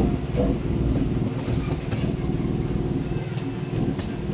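MEMU electric train running, a steady hum made of several held tones over a low rumble, with a few sharp clicks.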